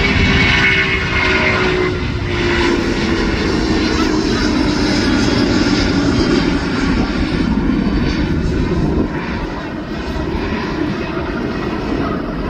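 Jet cargo airliner's engines at take-off power as it climbs away, a loud steady noise with a tone that slides slowly down in pitch as the plane passes.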